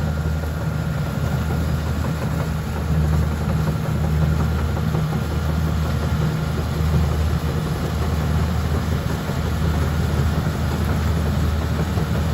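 Kubota rice combine harvester's diesel engine running steadily, a continuous low drone.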